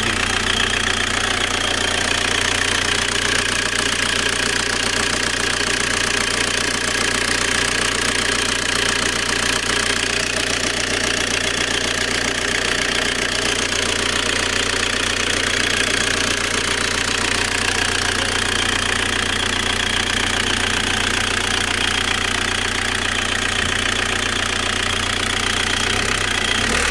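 Fiat Brava engine idling steadily with a whistle over it. The whistle comes at idle and goes away when the engine is given a little throttle.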